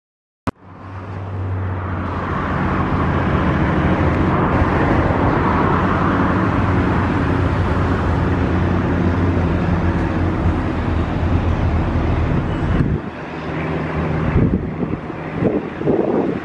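Steady drone of light propeller aircraft engines with a hiss of air noise over it; it starts suddenly with a click about half a second in, then dips about four seconds before the end and comes back choppier, with a few louder swells.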